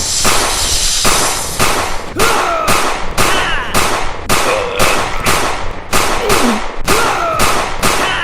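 A steady run of sharp bangs, about two a second, each fading quickly, with squeaky sliding tones rising and falling between them.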